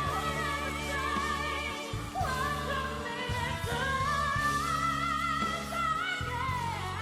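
Female pop vocalist singing a ballad over musical backing, holding long notes with a wide vibrato and sliding between pitches.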